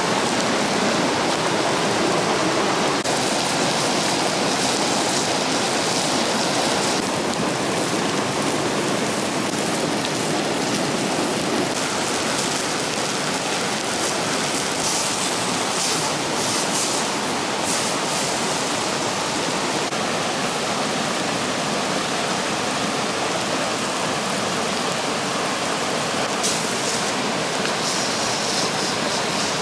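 Steady rush of a waterfall's flowing water.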